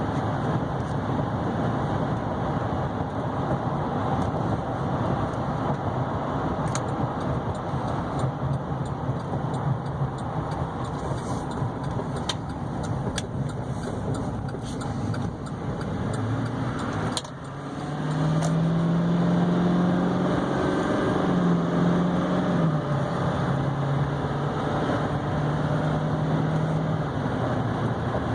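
Driving noise inside the cab of a 2012 Chevy Silverado 3500HD with the 6.6-litre Duramax turbo-diesel V8: steady road and tyre noise over the engine. About two-thirds of the way through the sound dips briefly, then a steadier engine hum comes up and steps in pitch a couple of times.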